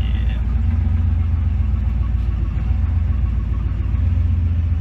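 Studebaker Champion's engine and exhaust, a steady deep rumble heard from inside the cabin while the car is driven.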